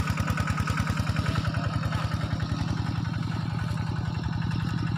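Small engine running steadily at an even, rapid beat.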